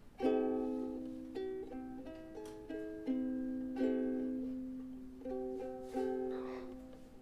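Ukulele strummed slowly, a chord about every second, each ringing on and fading before the next.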